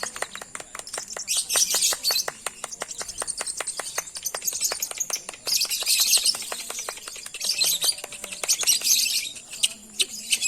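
Lovebird in long chattering song (ngekek): a rapid, unbroken run of chirps at about ten a second, with several louder, harsher high-pitched bursts woven in.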